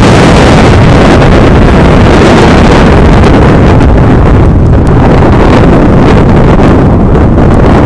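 Wind buffeting the camera microphone of a skier going fast, loud and continuous, over the hiss of skis on snow.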